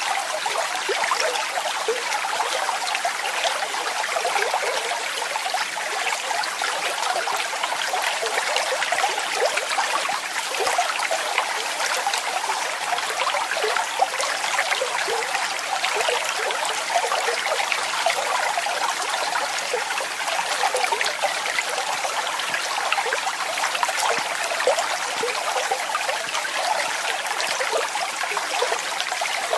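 Running water falling and splashing in a steady, unbroken rush, full of small splashes and with little deep rumble.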